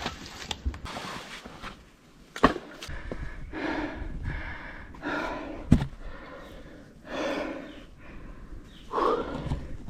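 A person walking a forest trail, breathing hard, with a swell of breath every second or two and footsteps on the ground. Two sharp snaps cut through, about two and a half seconds in and again near six seconds.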